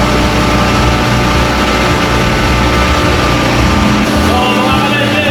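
Loud, steady mechanical hum of running machinery, with several constant tones held throughout.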